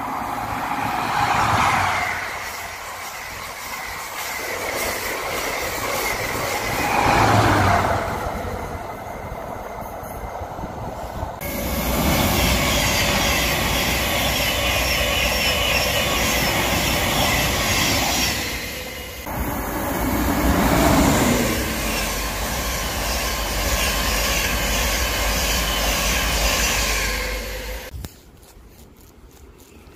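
An HST with Class 43 diesel power cars passes at speed; its rumble and rail noise swell twice. About eleven seconds in, the sound jumps to the steady running noise of a Thameslink Class 700 electric unit passing close alongside the platform, which cuts off suddenly near the end.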